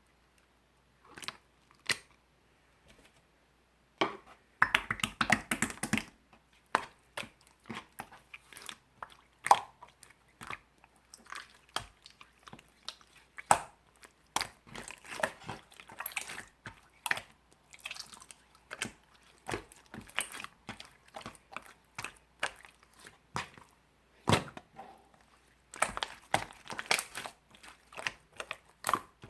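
Clear slime being pressed and stretched by hand, making a string of sticky clicks and small crackling pops, with denser crackling runs about four seconds in and again near the end.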